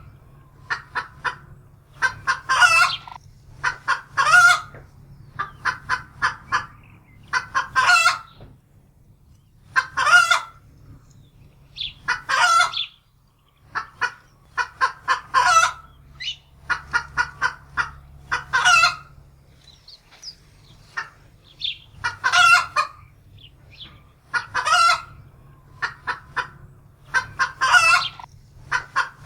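Domestic hen cackling in alarm: runs of quick short clucks, each ending in a longer, louder squawk, repeating every two to three seconds, the cackle of a frightened hen.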